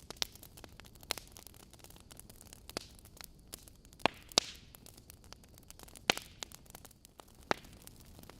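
Wood fire burning in a fireplace: soft steady hiss with irregular sharp pops and crackles from the logs, a brief hiss of escaping gas after the loudest pops a little past the middle.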